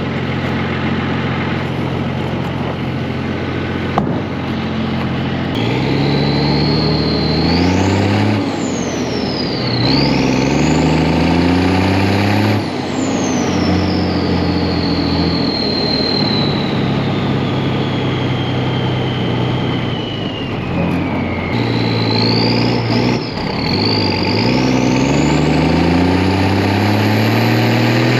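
Deuce-and-a-half army truck engine idling, then revved several times. With each rev the Schweitzer Whistler turbo's high whistle climbs steeply as it spools up, then winds slowly down in pitch as the revs drop.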